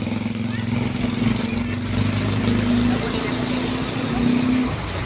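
Small motorcycle engine running under way, its pitch climbing gradually and then easing off near the end.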